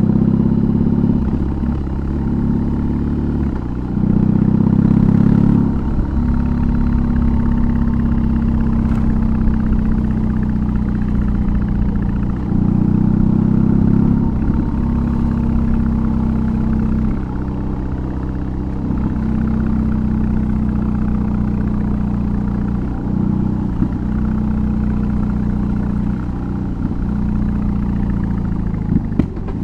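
BMW R18's big boxer twin with an aftermarket exhaust running under way. The throttle opens and closes several times, with louder stretches of acceleration about four and twelve seconds in, between spells of steady cruising.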